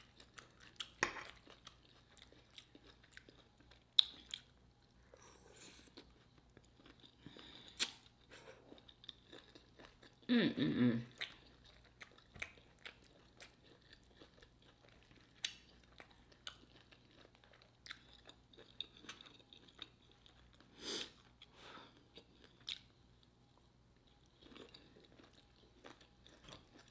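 Close-miked chewing and mouth sounds of someone eating a shrimp, sausage and cabbage stir fry, with scattered sharp clicks. A brief voiced sound about ten seconds in is the loudest moment.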